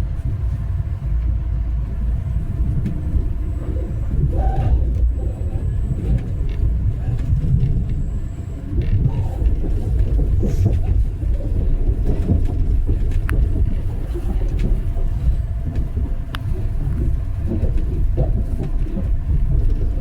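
Steady low rumble of a passenger train running, heard from inside the carriage, with a few faint clicks.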